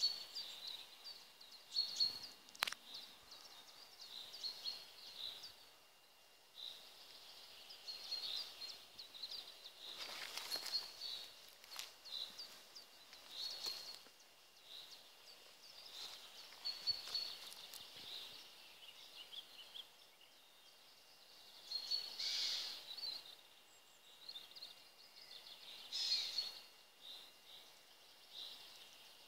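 Several small songbirds chirping and trilling throughout, with a few brief rustles.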